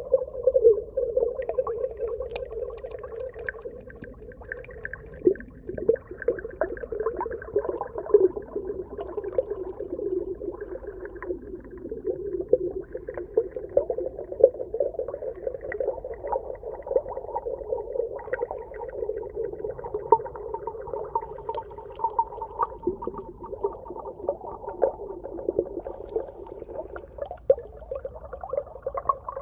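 Underwater reef ambience: a dense, steady crackle of many small clicks and pops.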